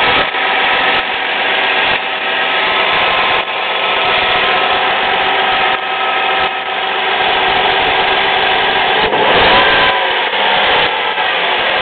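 2002 Dodge Stratus 2.7-litre V6 idling cold, a steady even hum with a slight pitch wobble about nine seconds in. The owner says the 129,000-mile engine runs with no ticks, taps or clicking.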